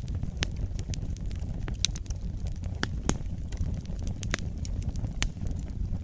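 Wood fire burning with a steady low rumble and irregular sharp crackles and pops scattered throughout.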